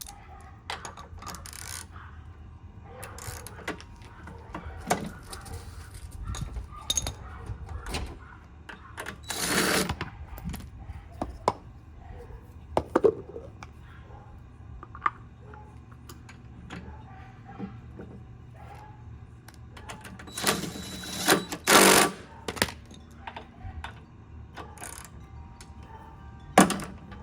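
New front wheels being fitted to a Honda lawn mower: scattered clicks and knocks of the wheels and their fasteners going onto the axles. There are louder rattling bursts about ten seconds in and again around twenty-one seconds in, and a sharp knock near the end.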